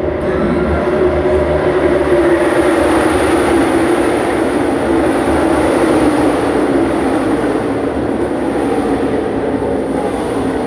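A pack of NASCAR stock cars' V8 engines running at racing speed: a loud, steady drone with engine tones that waver slightly in pitch.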